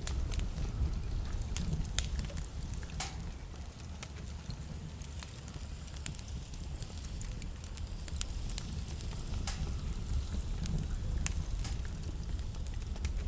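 Wood fire burning in a fireplace: a steady low rumble of flame with irregular crackles and sharp pops from the burning logs, a few louder pops scattered through.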